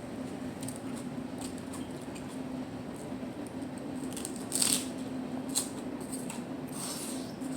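Close-miked chewing of lettuce-wrapped salad: small wet mouth clicks and crisp crunches, the loudest crunch about four and a half seconds in, over a steady low hum.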